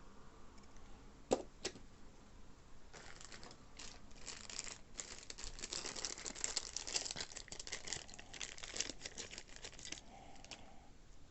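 Two sharp clicks, then packaging crinkling and rustling for several seconds as it is handled and unwrapped.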